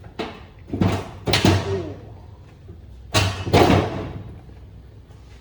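A few heavy clunks and scrapes, the loudest about a second and a half in and again at three and a half seconds, from a socket wrench being forced on a Denso common-rail injector's nozzle cap nut, which is too tight to turn easily.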